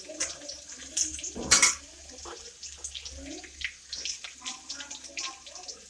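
Chopped garlic sizzling and crackling in hot oil in a kadhai, with a brief louder burst of noise about a second and a half in.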